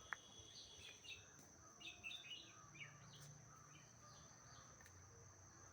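Faint outdoor ambience: a steady high-pitched insect drone with a scatter of short bird chirps in the first half.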